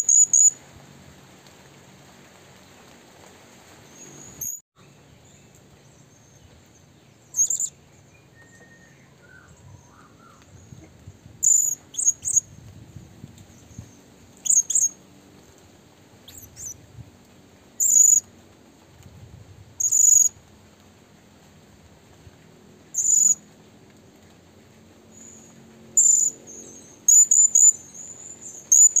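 A bird's short, very high chirps, about a dozen of them, spaced one to three seconds apart, with a quicker run of calls near the end.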